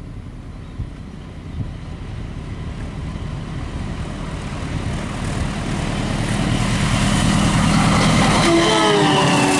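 A fast train approaching, its rumble growing steadily louder. Near the end, as it reaches the microphone, a set of pitched tones drops in pitch as the locomotive passes.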